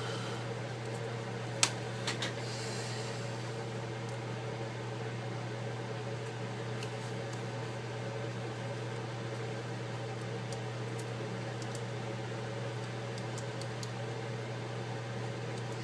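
Steady low hum of a running machine in the room, with a sharp click about one and a half seconds in and two softer clicks just after.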